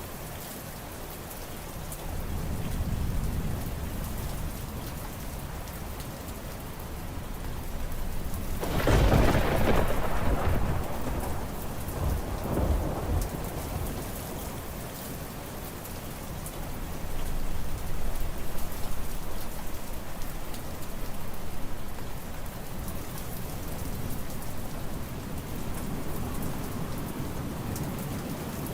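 Steady rain with thunder. A loud clap about nine seconds in rolls on for several seconds, and lower rumbles come and go before and after it.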